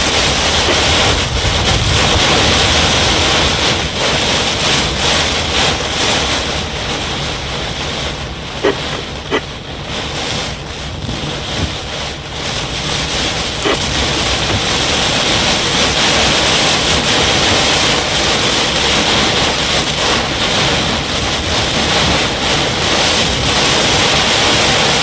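Strong wind and heavy rain of a thunderstorm, a loud, steady rush of noise with wind buffeting the microphone, easing a little about ten seconds in.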